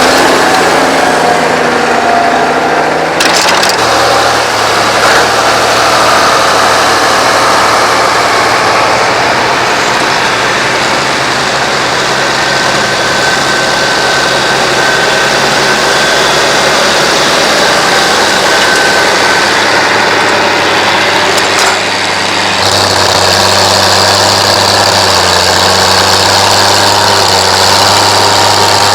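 Antique farm tractor engines running steadily, their note changing abruptly about three seconds in and again about twenty-two seconds in.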